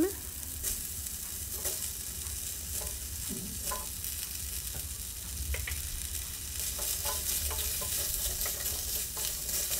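Cauliflower florets and potato cubes sizzling in a little oil in a stainless steel pan while a wooden spatula stirs them. The sizzle grows busier in the second half.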